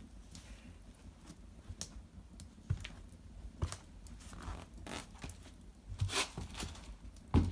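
Dry cedar branches and bark crackling, snapping and tearing in irregular bursts, with a few soft knocks of wood.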